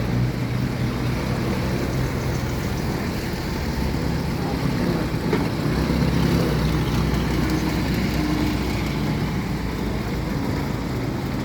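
Old car's engine running, a steady low hum that swells slightly about six seconds in.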